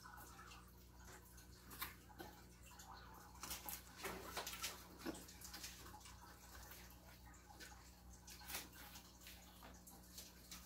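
Faint wet chewing and lip-smacking of a child eating pepperoni pizza: a scatter of soft mouth clicks, busiest about four to five seconds in, over a low steady hum.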